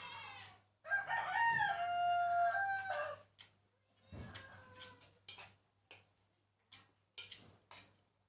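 A rooster crowing once, one long call of about two seconds with stepped rises and falls in pitch. It is followed by scattered soft clicks and smacks of eating.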